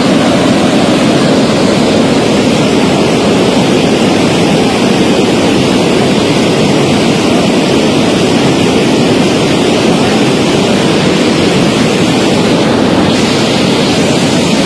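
Swat River in flood: a loud, steady rush of fast floodwater.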